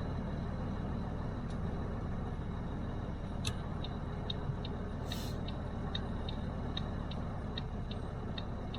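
Ford F-250 Super Duty's 6.7-litre diesel engine idling steadily, heard from inside the cab. From about three and a half seconds in, a turn-signal flasher ticks about three times a second, with one short hiss about five seconds in.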